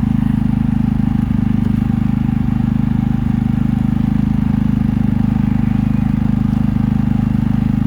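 Generator engine running steadily at constant speed with a fast, even pulsing hum.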